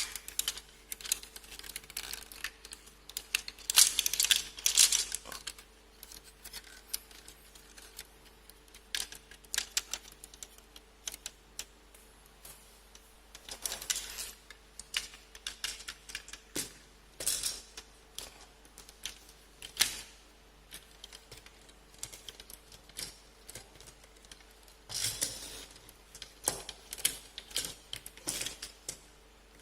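Plastic parts of a model-kit action figure being handled and pressed together: irregular small clicks and taps with a few short scraping rustles.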